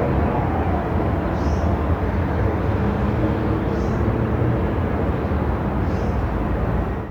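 Steady low rumble and road noise of a moving car, running evenly without changes, with three faint short high chirps about two seconds apart.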